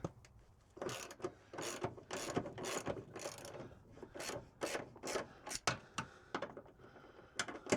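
Hand ratchet wrench clicking as a long bolt holding a van's diesel fuel tank is slowly undone by hand, a run of short ratcheting strokes about two a second.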